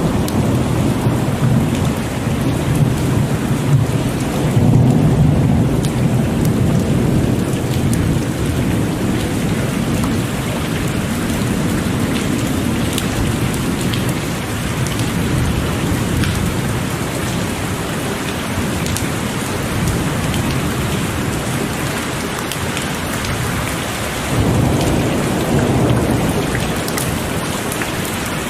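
Heavy rain falling steadily with the patter of drops, under rolling thunder that swells near the start and again near the end.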